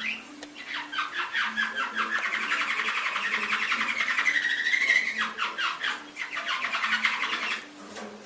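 Domestic canary singing one long, continuous song phrase of rapid trills that change speed, with a warbling glide in the middle, lasting about seven seconds.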